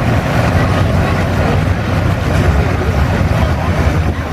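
International Harvester 966 pulling tractor's engine running hard under full load as it drags the weight sled down the track, a loud, steady, deep engine noise.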